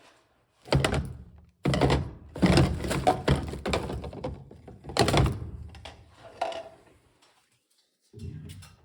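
Hollow plastic knocks and clatter of PVC drain pipe and 45-degree fittings being handled and pushed together in a dry fit. There are several sharp knocks in the first five seconds, then it goes quieter.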